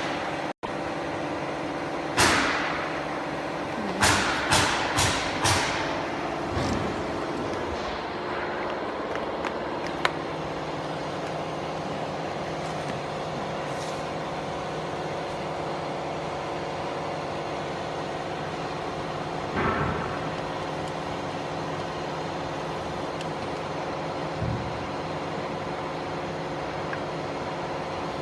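Steady hum of a laser marking machine, with several level tones, most likely its cooling fans. Sharp clacks cut through it: one about two seconds in, then four in quick succession a couple of seconds later, and a few fainter ones afterwards.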